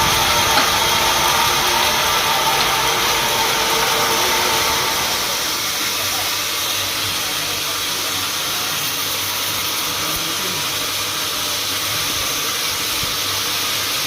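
Sawmill machinery running steadily with a loud hissing mechanical noise, a little louder for the first five seconds or so before settling to a slightly lower steady level.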